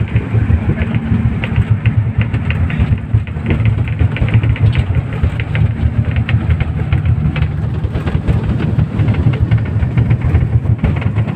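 Passenger speedboat running at speed through heavy rain: a steady, heavy low rumble from its outboard engines, with many small ticks of rain striking the boat.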